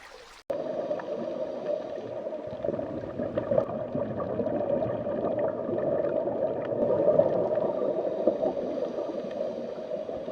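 Steady gurgling, bubbling water with small scattered pops, starting suddenly about half a second in.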